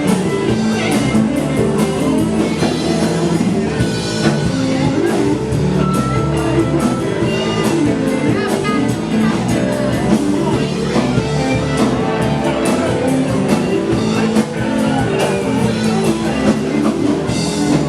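A live blues-rock band playing with electric guitar and a drum kit, steady and loud.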